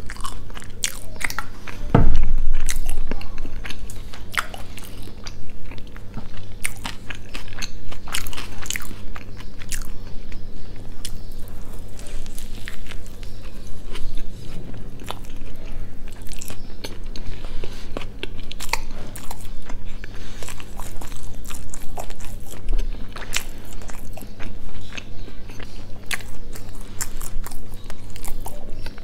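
Close-miked biting and chewing of a chicken burger, with soft crunches and many small wet clicks from the mouth. A loud low thump comes about two seconds in, over a faint steady hum.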